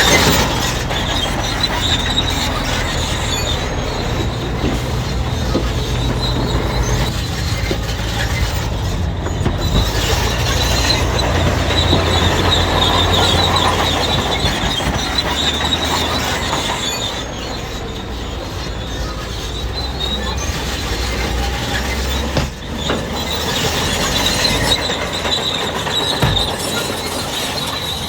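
Crawler bulldozer at work: its diesel engine runs steadily under load while the steel tracks squeal and clank, the squeal fading and returning through the stretch.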